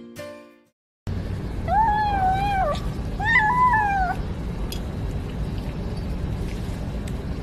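A cat meowing twice, two drawn-out calls each just under a second long, over a steady low background rumble.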